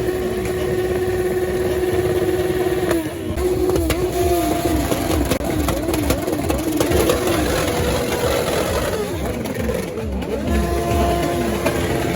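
Motorcycle engines revving: a rev held high for about three seconds, then a series of quick drops and rises in pitch, and another held rev near the end.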